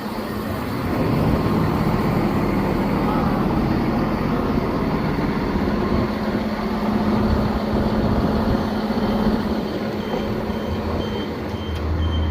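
Passenger train running, heard on board: a steady rumble with a low hum. From about eight and a half seconds a regular high beeping sounds about twice a second, and a deeper hum comes in near the end.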